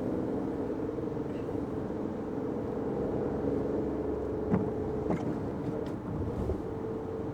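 Fiat 500X being driven on wet roads, heard from inside the cabin: a steady drone of engine and tyres. A couple of sharp knocks come about halfway through, the first the loudest.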